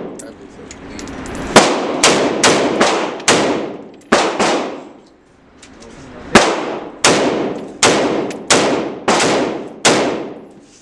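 Gunshots from a semi-automatic firearm fired one at a time, about two a second, roughly a dozen shots with a pause near the middle, each shot ringing off after it. The gun cycles through the magazine without jamming, running cleanly on a new magazine after earlier jams.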